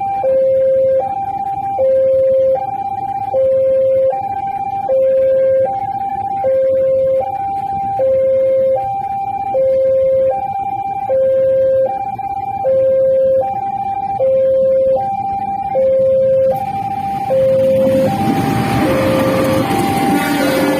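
Railway level-crossing warning alarm sounding a steady electronic two-tone call, alternating high and low about once every 1.3 s, which signals that a train is due at the crossing. In the last few seconds the rumble of the approaching train grows in under the alarm.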